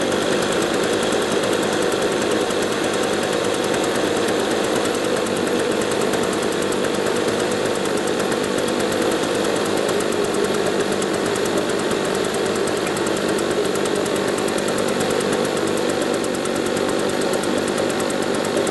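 Husqvarna 150BT backpack leaf blower's two-stroke engine running steadily, freshly rebuilt with a new cylinder and piston after the old piston seized from running fuel without oil.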